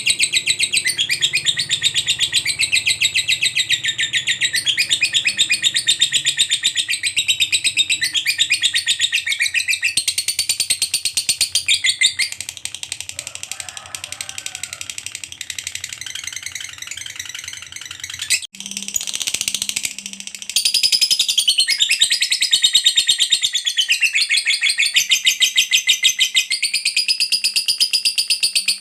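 A lovebird's long ngekek song: a continuous, very fast high-pitched chattering trill. It drops softer for a few seconds near the middle, breaks off suddenly about two-thirds in, then resumes at full strength.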